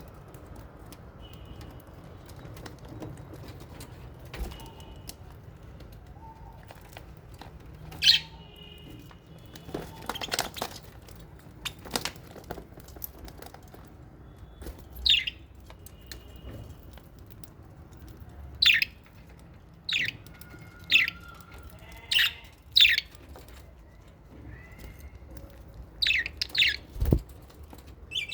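Small pet parrots, lovebirds and budgies, calling in an aviary: about a dozen short, shrill calls, scattered at first and coming thicker in the second half, over faint steady chirping, with a brief rustle, likely wings, about ten seconds in.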